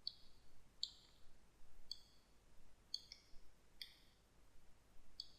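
Computer mouse clicking faintly, a short sharp click about once a second, some as quick press-and-release pairs.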